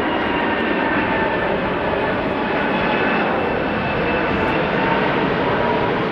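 Airbus A380's four jet engines running during a low approach and go-around: a steady, loud rush of jet noise with high whining tones held through it.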